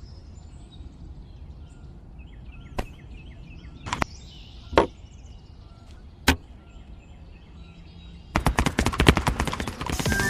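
Four single sharp knocks, one to one and a half seconds apart, over a faint steady background, then a fast, louder clatter of clicks begins near the end.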